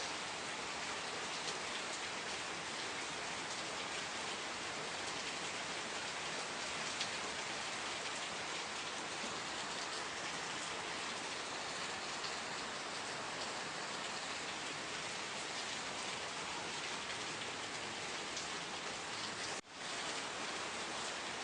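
Steady rain falling, a dense even hiss dotted with fine drop ticks. It cuts out for an instant near the end and comes straight back.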